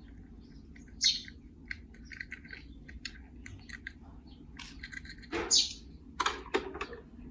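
Small toy cars and a plastic carry case clicking and clacking as they are handled: irregular light taps, with a few louder clacks about a second in and again near the end.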